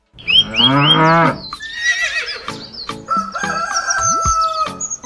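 Farm-animal calls, a rooster crowing among them, with three quick falling chirps near the start. They are mixed over music with a steady beat.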